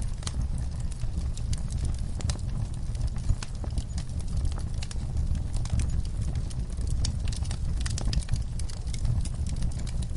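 Wood fire crackling in a fireplace: a steady low rumble from the burning logs with frequent, irregular sharp pops and snaps.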